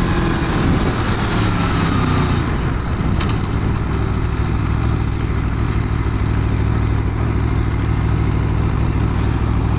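Aprilia Tuono V4's V4 engine through its stock exhaust, running under way at a steady pace, over a constant hiss of air and road noise. Its pitch eases down slightly in the first couple of seconds, then holds steady.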